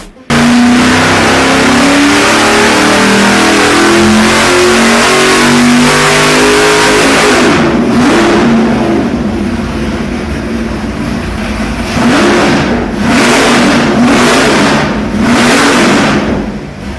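Nelson Racing Engines 572 Pump Gas Warrior big-block V8 held at high revs for about seven seconds, then revved up and let back down about five times. Loud and aggressive sounding.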